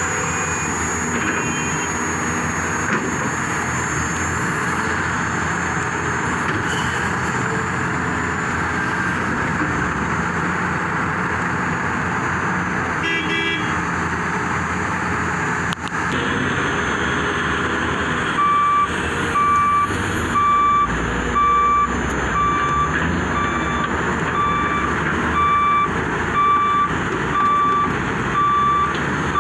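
Heavy diesel machinery, an excavator and dump trucks, running steadily. About two-thirds of the way through, a reversing alarm starts beeping at an even pace of roughly one beep a second.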